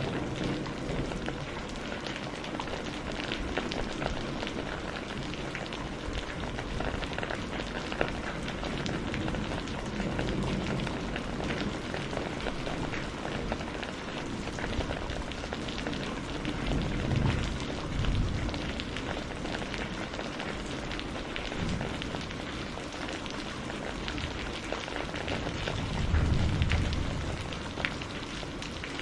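Steady rain falling: a constant hiss of many small drops pattering on a surface. Brief low swells rise and fade a few times, the strongest one near the end.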